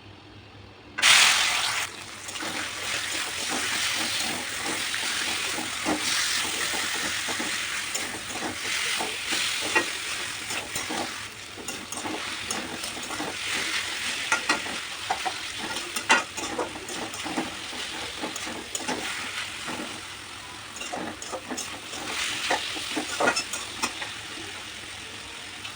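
Food going into hot oil with a sudden loud sizzle about a second in, then frying steadily while a spatula stirs it, with frequent clicks and scrapes against the pan.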